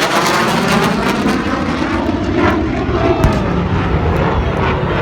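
Military aircraft flying past low and loud, its engine noise steady with sweeping shifts in pitch as it passes.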